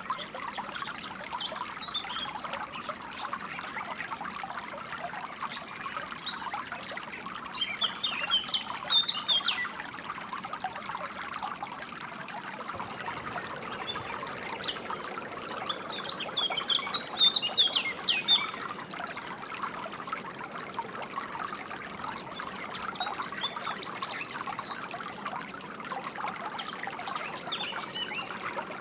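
A small stream trickling and babbling steadily, with songbirds chirping over it in short bursts, loudest about a third of the way in and again just past the middle.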